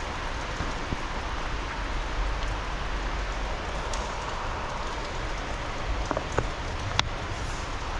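Steady hiss of rain falling, with a few sharp ticks about six and seven seconds in.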